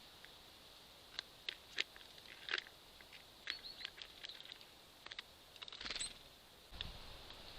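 Irregular sharp taps and clicks of small birds pecking and handling seeds and nuts at a squirrel feeder, about a dozen, some in quick pairs, with a small cluster near the end.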